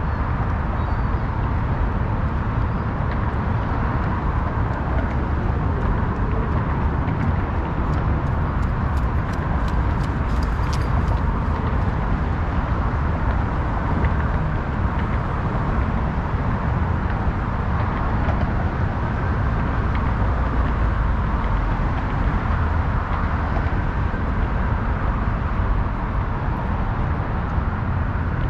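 Steady city ambience: continuous road-traffic noise with a heavy low rumble and no single event standing out.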